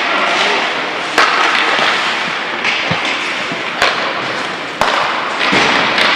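Ice hockey play on the rink: sharp knocks of stick and puck, about one a second for a few seconds, over a steady scraping hiss of skates on the ice.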